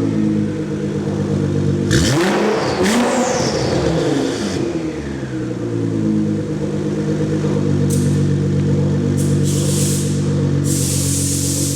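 2010 Nissan GT-R's twin-turbo V6 running through an AMS downpipe and midpipe and a Meisterschaft exhaust. It idles steadily, is revved sharply once about two seconds in, its pitch rising and falling back, then settles to idle again. A few short hissing rushes come near the end.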